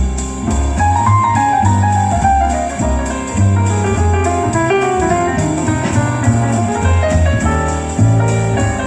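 Instrumental music with a pulsing bass line and a moving melody above it, played back through JBL L16 loudspeakers as a sound test.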